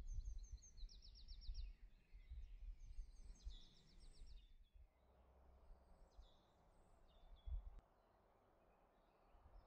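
Faint birdsong, with high chirps and two quick trills in the first four seconds, then scattered calls, over a low rumble of outdoor ambience. A steady hiss of distant noise comes in about five seconds in.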